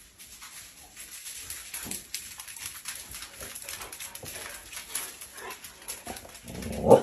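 Dog sounds: faint scattered clicks and shuffling, then a brief louder dog vocalisation near the end.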